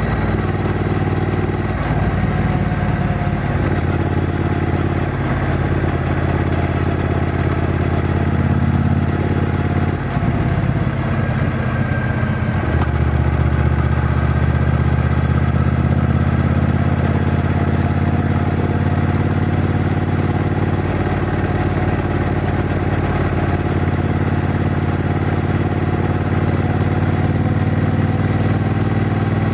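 Triumph Bonneville T120's 1200 cc parallel-twin engine running. Its note shifts in pitch a few times in the first dozen seconds, dips briefly about ten seconds in, then holds steady.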